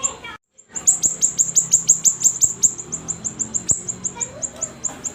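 Siri-siri bird singing in full song: a fast, even run of high, downward-sliding chirps, about six a second, with a brief break about half a second in.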